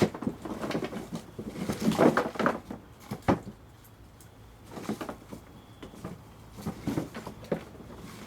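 Irregular knocks and clunks, about half a dozen spread over several seconds with a short cluster near the start, as pieces of scrap wood are handled and dropped while a wood-fired rocket stove is being loaded.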